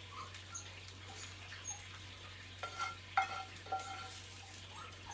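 Metal spatula scraping and clinking against a pan as an egg is lifted out to serve it. A few short ringing clinks come near the middle.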